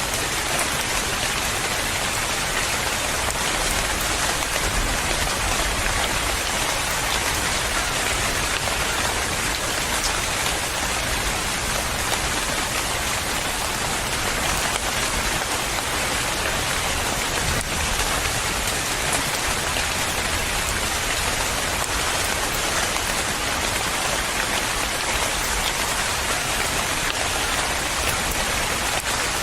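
Steady rain falling on a surface, an even hiss without let-up or thunder.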